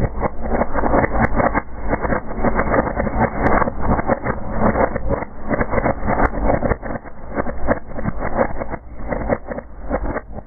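Birch bark burning in a fireplace: a dense, continuous crackling over the rushing noise of the flames, thinning out somewhat in the last few seconds.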